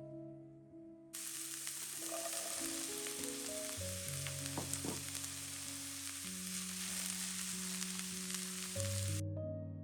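Food sizzling in hot oil in a frying pan, starting abruptly about a second in and cutting off just after nine seconds. Soft background music with slow, sustained piano-like notes plays throughout.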